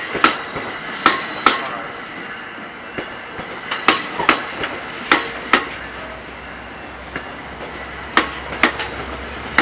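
Bi-level commuter train cars rolling slowly past, their wheels giving sharp double clicks over a rail joint every few seconds, one pair per truck, over a low rolling rumble. A faint high wheel squeal comes in about halfway through.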